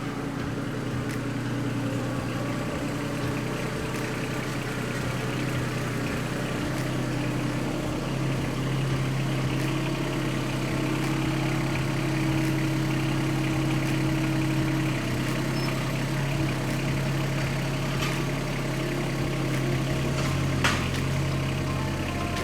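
An engine or motor running steadily, its hum stepping up slightly about eight seconds in, with a single sharp click near the end.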